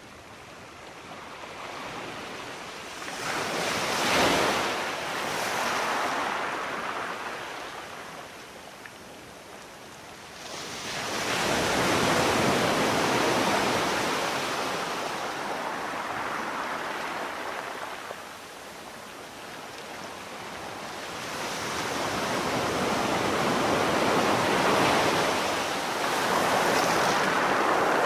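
Sea waves surging and washing in slow swells of surf noise: a short swell a few seconds in, a bigger one rising sharply about ten seconds in, and another building from about twenty seconds.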